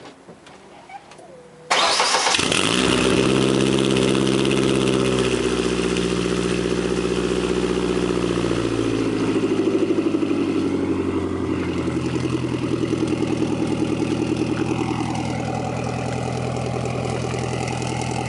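A 1994 Ford Ranger's engine starting suddenly about two seconds in, then idling steadily through its new exhaust, run straight to the back with a Cherry Bomb muffler and a large tip. This is the first start on the finished exhaust.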